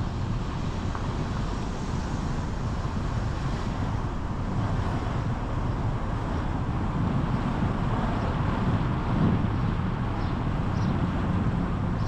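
Steady road and engine noise of a car driving, with wind rumbling on the microphone.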